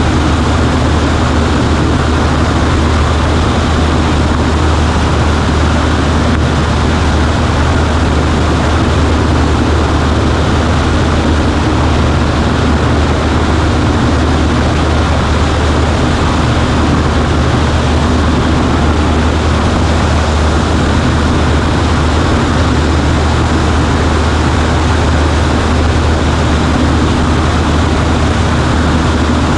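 Cessna 140A's engine and propeller droning steadily at a constant setting, with no change in pitch or level.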